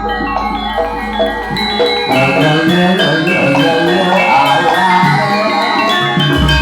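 Javanese gamelan playing an instrumental passage: bright metallophone notes struck in a running melody, over deep low notes in about the first two seconds and again near the end.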